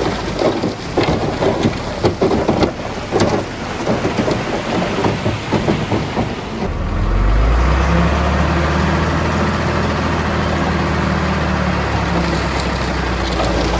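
Komatsu D31PX bulldozer working rock and soil: a dense, irregular clattering of rocks and dirt tumbling and scraping. About seven seconds in, its diesel engine takes over with a steady low drone under load.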